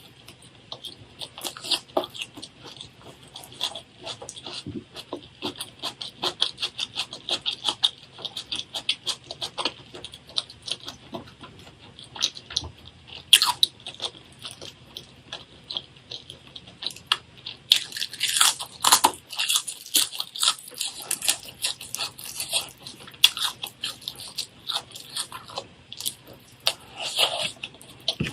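Rapid, crisp crunching and chewing of food close to the microphone, many small clicks a second, with a louder scratchy rustle about eighteen seconds in.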